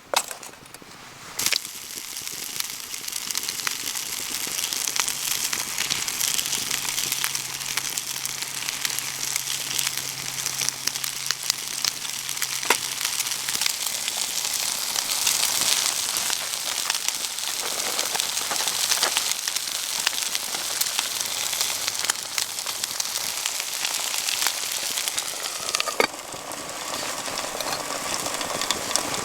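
Food frying in a pan over a campfire: a steady sizzle full of small crackles and pops that starts with a knock and builds over the first few seconds, easing briefly near the end.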